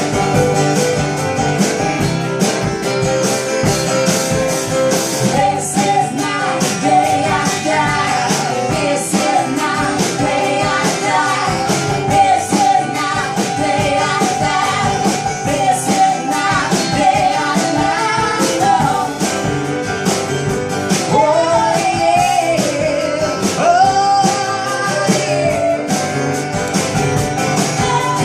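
Live roots-rock band playing: strummed guitars over a steady beat, with a wavering melody line coming in about six seconds in.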